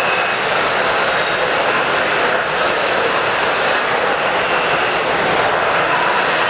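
Steady hubbub of a crowded exhibition hall: many indistinct voices blending into a continuous murmur.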